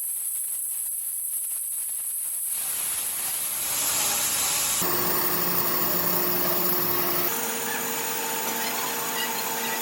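Machine-tool noise: a hiss with fine rapid ticking, then louder steady machine running with a held hum that shifts pitch abruptly twice.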